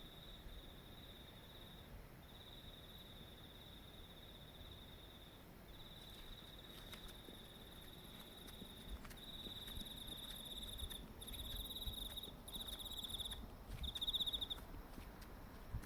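Night insects trilling in long, even runs of a couple of seconds each, separated by short gaps, then in shorter pulsed bursts in the second half, with a second, higher-pitched insect joining about ten seconds in.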